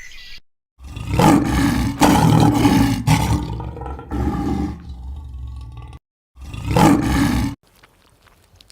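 Big cat roaring: a run of loud, rough calls lasting about five seconds, then one more call after a short break.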